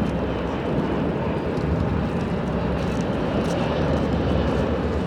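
Airbus A380 jet engines heard as a steady, deep rumble.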